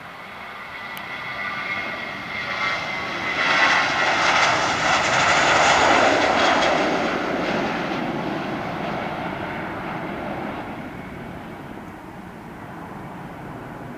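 Jet airliner passing close by. A high engine whine builds, swells into a loud rushing roar about halfway through, then slowly fades away.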